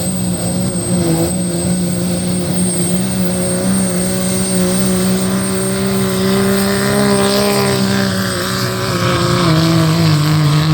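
A truck-or-tractor pulling engine running hard and steady under heavy load, holding nearly one pitch and sagging a little near the end.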